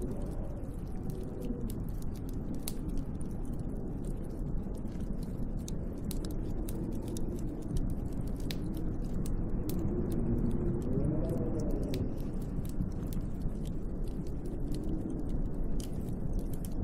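Snowstorm wind heard from inside a cabin: a steady low rush with howling tones that rise and fall, swelling most about eleven seconds in. Scattered faint ticks and crackles run over it.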